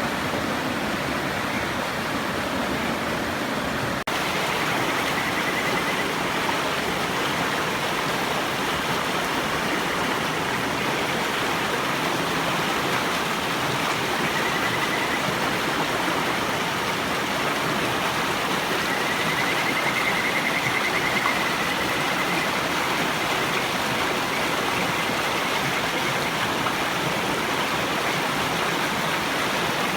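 River water rushing steadily, with kajika frogs (Buergeria buergeri) giving faint high trilling whistles now and then, the longest about two-thirds of the way through.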